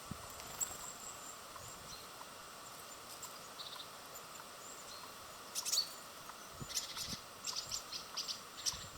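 Small birds chirping at a feeder: short, high, sharp chirps, scattered at first and then coming in a quick run through the second half, over a steady outdoor hiss.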